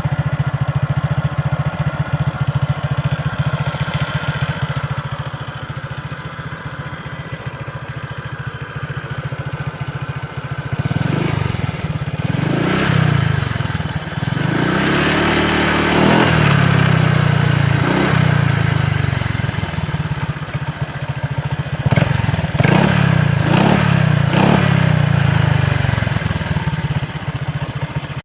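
Single-cylinder motor scooter running through a Kawasaki Ninja 250Fi stock muffler fitted as a custom exhaust: it idles steadily, then from about eleven seconds in is revved repeatedly, the pitch rising and falling with each blip of the throttle.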